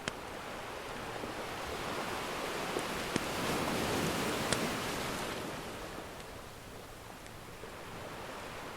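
Ocean surf: one wave swells, breaks and washes back out, with a few sharp pops from a crackling wood fire.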